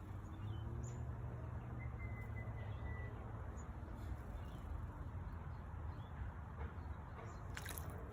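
Small birds calling: a few short chirps and one drawn-out, slightly falling whistle about two seconds in, with a sharp chirp near the end, over a steady low rumble.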